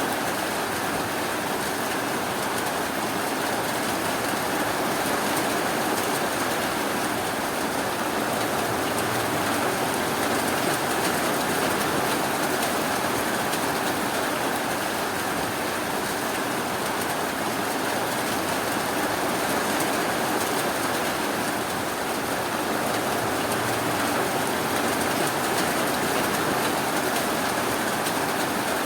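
Steady rainfall, an even rushing hiss that does not change, with no thunder or single drops standing out.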